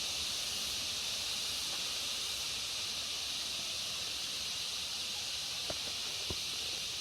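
A steady, high-pitched insect chorus in tropical forest, an even shrill hiss with no breaks, with two faint clicks near the end.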